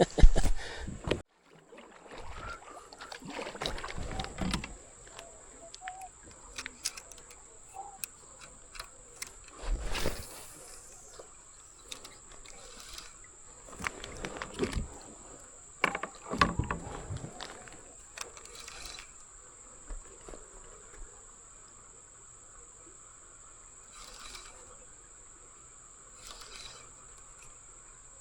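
Scattered knocks, rustles and light splashes around a kayak on a creek, loudest in clusters through the first two-thirds, with a faint steady high whine throughout.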